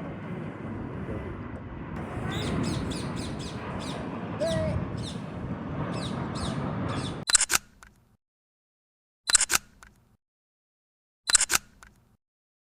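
Birds chirping, a run of quick high falling chirps, over a steady outdoor background hum. About seven seconds in, the sound cuts out, and it is broken only by three short sharp bursts about two seconds apart.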